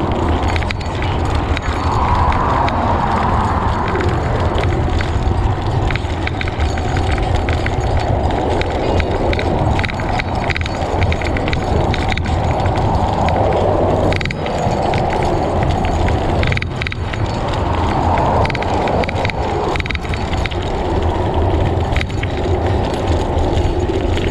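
Bicycle riding along a road, heard from a GoPro on the rider: steady wind rush and deep rumble on the microphone with tyre noise, broken by frequent short clicks and rattles.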